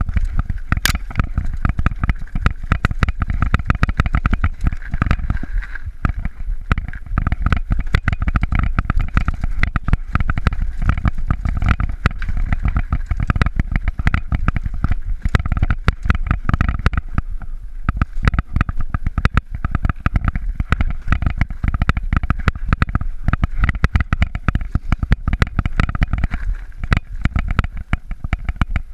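Mountain bike riding over a rough trail: constant rattling and jolting of the bike, with low wind rumble on the microphone.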